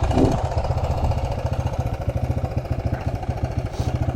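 Single-cylinder four-stroke engine of a Suzuki DR-Z125L dirt bike idling steadily, a rapid even pulse.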